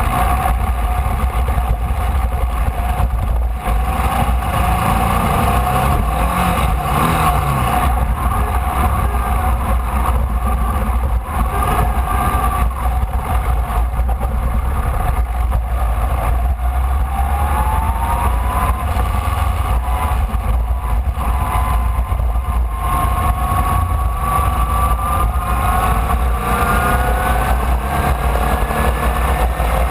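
Formula Vee race car's air-cooled Volkswagen flat-four engine running hard at racing speed, heard onboard over a heavy low rumble of wind and road noise. The engine's pitch climbs steadily as the car accelerates, once past the middle and again over the last several seconds.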